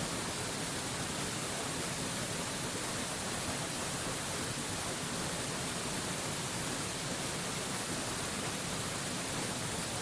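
Waterfall falling in a steady, even rush with no changes.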